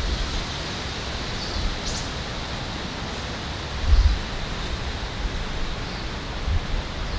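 Wind in a forest: a steady rushing hiss, with gusts buffeting the microphone, strongest about four seconds in.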